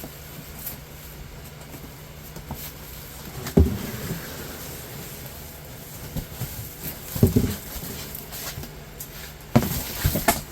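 Furnace kit parts being unpacked and handled: a few knocks and rustles, the loudest about a third of the way in, around seven seconds and near the end, over a low steady hum.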